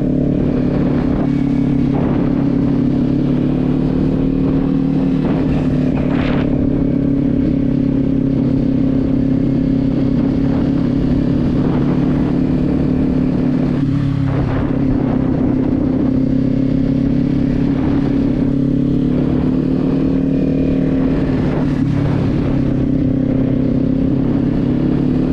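Kawasaki Z400's parallel-twin engine running steadily while the motorcycle is ridden. About halfway through, the engine note drops briefly and then picks back up.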